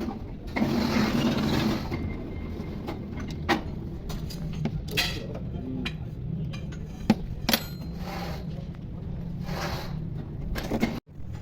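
Scattered metallic clinks and knocks of tools and parts being handled during gearbox repair work, over a steady low hum. A rushing noise lasts about a second and a half near the start.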